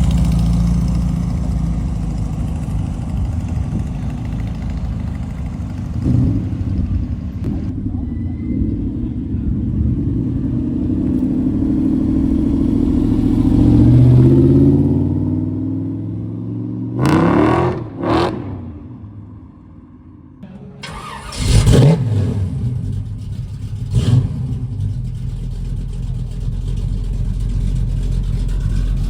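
Car engines running. One rises in pitch as it accelerates about halfway through, followed by several short, loud revs or pass-bys.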